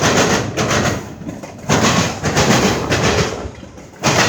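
A passing train's noise, swelling and sinking in surges and fading near the end.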